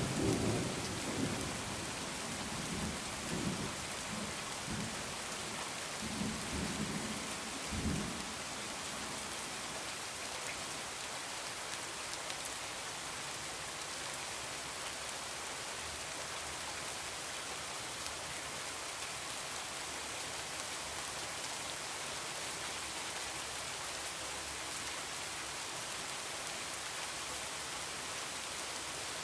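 Heavy rain falling steadily, with a roll of thunder rumbling low through the first several seconds and dying away about eight seconds in.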